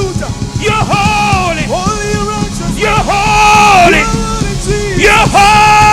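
Live gospel praise song: voices sing long held notes with a wavering pitch over a full band with drums and bass.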